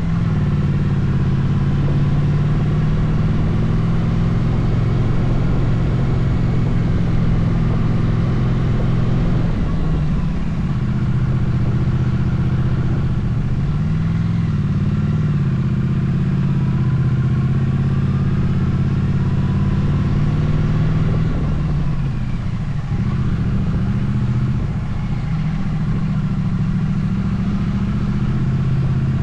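Motorcycle engine running steadily while riding along. Its pitch dips and climbs back up a few times, as the rider changes gear or eases off and opens the throttle again.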